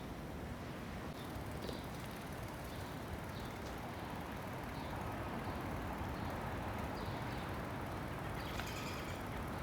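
Footsteps on pavement, a light step about once a second, over a steady outdoor rumble.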